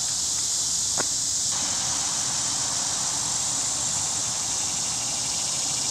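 Steady high-pitched droning of insects in the surrounding vegetation, with one short click about a second in.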